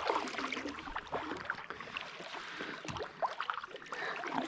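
Water splashing and trickling around a kayak in a shallow river, with scattered small knocks and clicks.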